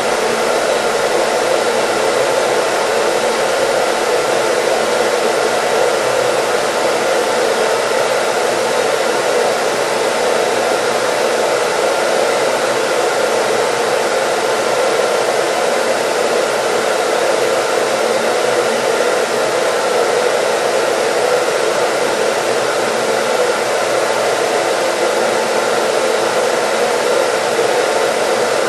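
Hair dryer running steadily: an even, loud rush of blown air with a faint steady motor hum.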